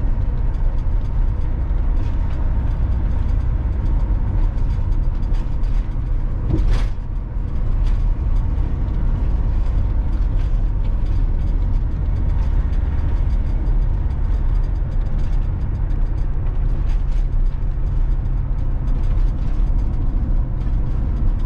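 Steady road and engine rumble inside a moving motorhome's cab, with rattles and creaks from the fittings and one sharp click about seven seconds in.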